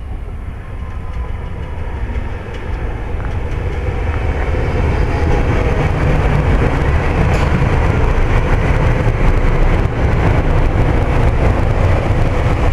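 SEPTA electric multiple-unit commuter train pulling into the station, its wheels and cars making a rumble that grows louder over the first several seconds as it draws close, then holds steady as the cars pass close by.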